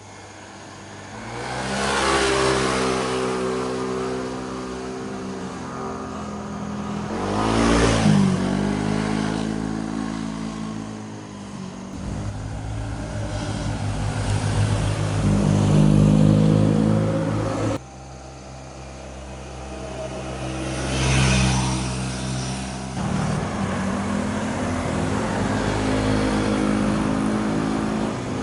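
Motorcycles passing by one after another, engines revving hard with the pitch sliding down as each goes past. Several pass-bys, with an abrupt cut to the next about 18 seconds in.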